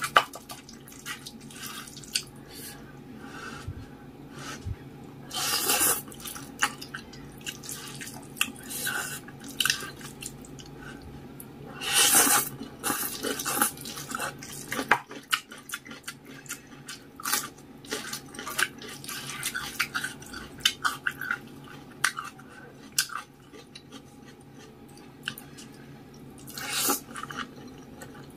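Close-miked eating of saucy instant noodles and rice: wet chewing and many small mouth clicks, with louder bursts about six seconds in, about twelve seconds in and near the end, over a faint steady hum.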